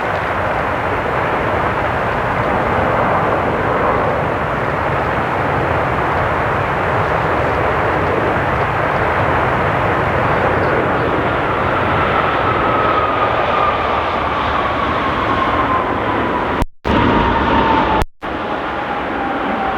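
Jet airliner engines running loud and steady, with a whine that falls slowly in pitch over the last several seconds as the aircraft passes. The sound cuts out briefly twice near the end.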